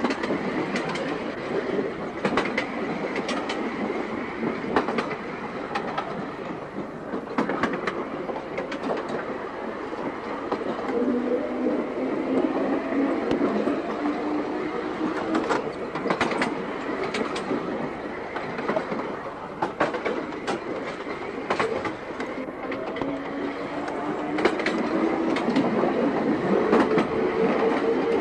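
Seaton Tramway narrow-gauge electric tram running along the track: a steady rumble with irregular sharp clicks of the wheels over rail joints. A motor whine rises in pitch twice, about eleven seconds in and again near the end.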